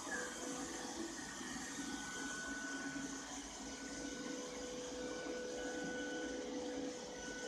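Ropo Glass robot vacuum cleaner running: a steady whirring rush with a thin, even motor whine over it.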